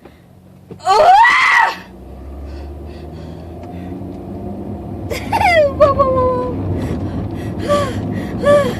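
A young woman crying out and moaning in pain during a sickle cell pain crisis. There is a loud, high cry about a second in, a long moan falling in pitch around five seconds, and short whimpers near the end. Under them, car road noise grows louder.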